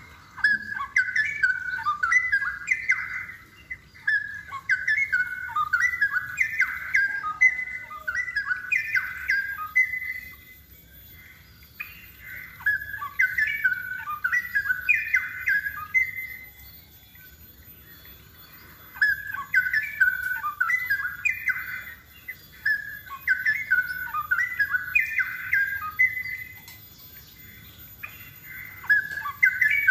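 Straw-headed bulbul singing: loud runs of quick warbled notes in bouts a few seconds long, with short pauses between bouts.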